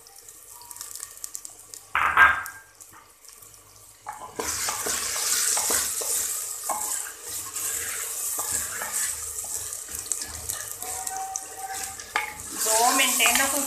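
Chopped tomatoes and potatoes frying in hot oil in a clay handi, a steady sizzle setting in about four seconds in, with the ladle scraping and clicking against the clay pot as the vegetables are stirred.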